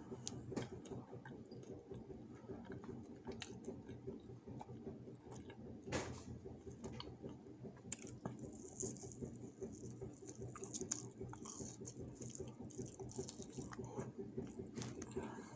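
A person chewing and biting pieces of fried lemon chicken, with soft mouth sounds and many small clicks, and one sharper click about six seconds in, over a steady low hum.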